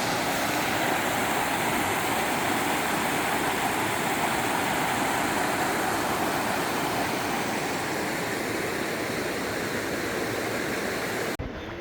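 Steady rush of a mountain stream's water flowing over rocks, cutting in and out abruptly at edits.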